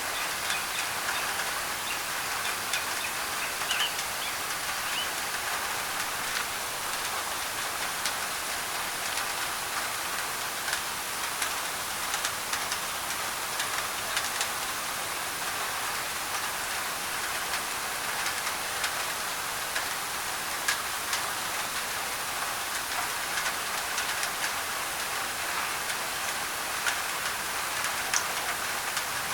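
Steady heavy rain drumming on a thin tin roof, an even hiss with scattered sharp drop ticks.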